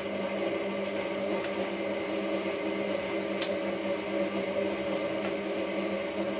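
Hotpoint 9534A washing machine running mid-wash on a synthetic 60 program: a steady motor hum made of several fixed tones, with a single tick about halfway through.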